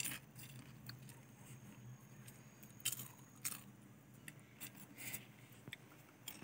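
Faint crisp crunches of popcorn being chewed: a few short crunches near the start, around three seconds in and again about five seconds in, over a low steady hum.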